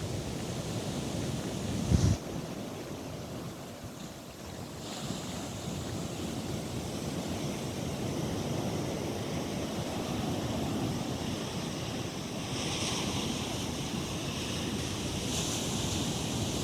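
Ocean surf washing steadily on a beach, with wind noise on the microphone and a brief low thump about two seconds in.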